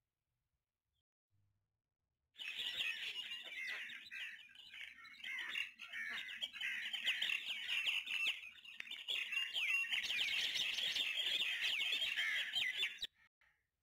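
Many small birds chirping and twittering together in a dense, continuous chorus of quick rising and falling notes. It starts abruptly a couple of seconds in and cuts off suddenly near the end.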